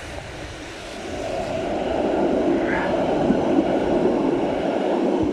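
Helsinki tram passing close by: its rolling noise builds over the first couple of seconds, holds steady, then falls away near the end.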